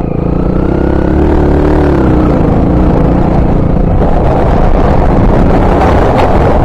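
Honda XR 250 Tornado's single-cylinder four-stroke engine running under way, its pitch rising and then easing off in the first couple of seconds, with wind buffeting the microphone.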